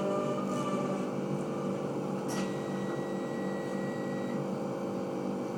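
Train's steady running hum inside the carriage. A click comes about two seconds in, followed by a thin high tone that holds for about two seconds.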